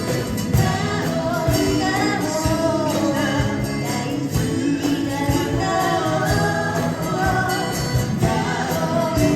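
Live music: a voice singing with instrumental backing over a steady percussion beat.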